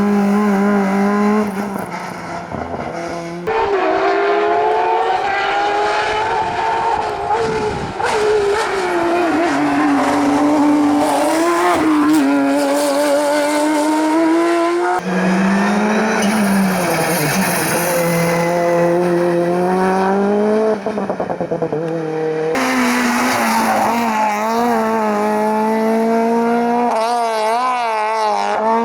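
Hillclimb race car engines driven hard, revving up in pitch through the gears and dropping back at each shift. Several short passes of different cars follow one after another.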